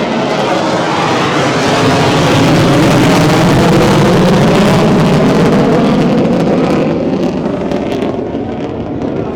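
Jet aircraft flying past overhead: a loud rushing engine noise that swells, holds for a few seconds and fades away near the end.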